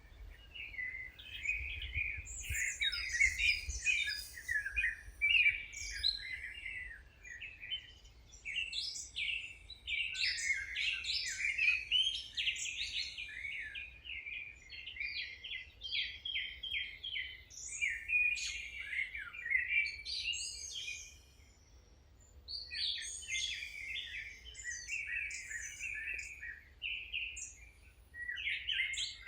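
Birdsong: several small birds singing, with rapid chirps and trills overlapping almost without a break, dropping off for a moment about two-thirds of the way through.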